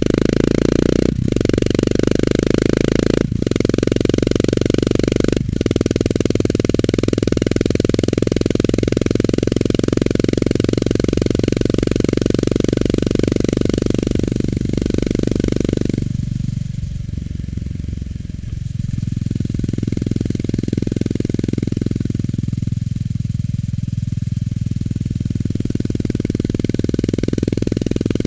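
Honda GB350S's single-cylinder engine with its stock muffler, heard while riding. It runs as a steady low thudding exhaust note, with three brief breaks in the first few seconds, then drops and softens twice in the second half before picking up again.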